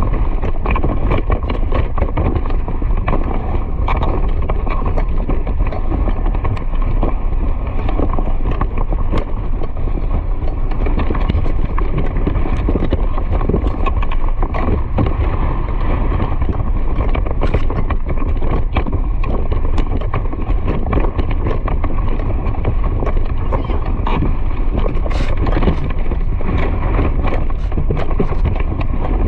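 Steady rushing movement and wind noise, with rapid clip-clop footfalls of a running animal.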